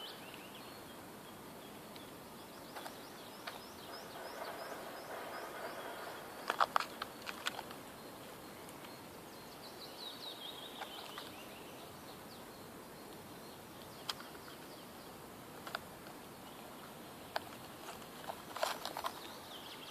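Quiet forest ambience with a small bird chirping in short quick runs of high, falling notes a few times, and scattered light clicks and rustles.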